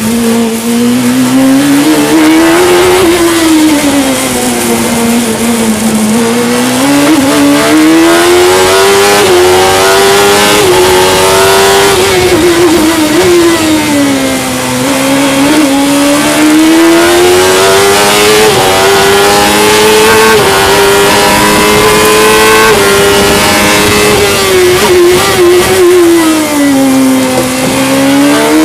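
Fisher Fury sports racer's engine driven hard on a sprint course, heard from the open cockpit: the revs climb under acceleration with small dips at upshifts, then fall away as it slows for corners, three times over, and climb again near the end. A steady rush of wind noise runs underneath.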